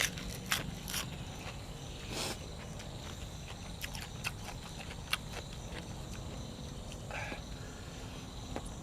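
A person chewing food up close, with scattered short crunches and wet mouth clicks over a steady low background hum.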